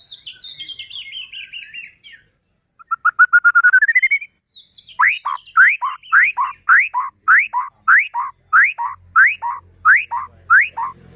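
White-rumped shama (murai batu) singing: a short falling trill, then a quick rising run of notes, then a string of about ten identical rising whistled notes repeated evenly, about two a second.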